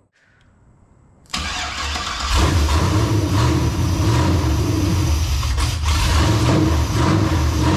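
First start of a 5.3-litre LS V8 running on a newly installed Aces throttle-body fuel injection system. The starter cranks briefly, the engine catches about two seconds in, and it settles into a loud, steady run.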